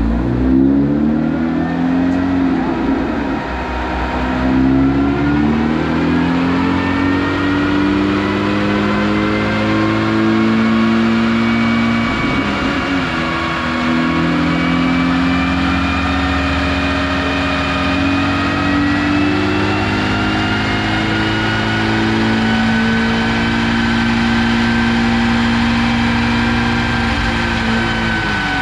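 Honda Civic Type R FK8's 2.0-litre turbocharged four-cylinder engine running on a chassis dyno for a roll-speed calibration run: the engine note climbs and drops several times as it works up through the gears, then holds at a steady speed, with tyre and roller whine rising slowly over it. The engine note falls away near the end.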